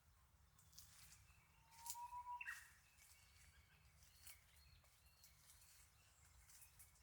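Faint wild birds calling over quiet outdoor background. There are short high chirps, and one louder call about two seconds in that holds a note and then jumps up in pitch.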